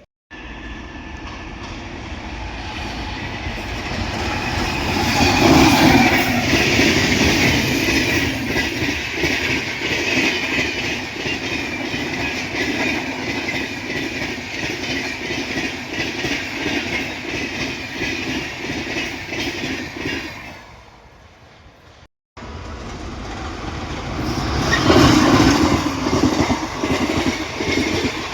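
A train passing close by, wheels clattering rhythmically over the rail joints: the sound builds, stays loud for about fifteen seconds, then fades. After an abrupt break, a second train passage swells up near the end.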